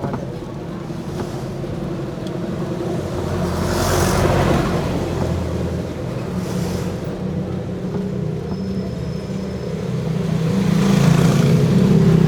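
A vehicle's engine running as it is driven. The engine note and a rushing noise swell twice, about four seconds in and again near the end.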